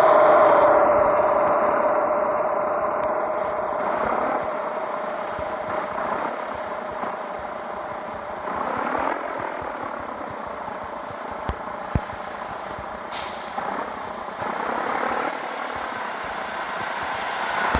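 Scania 113 truck's straight-six diesel running on the move, its sound rising and falling slowly, with a whine that sinks in pitch over the first second. A short sharp hiss comes about thirteen seconds in.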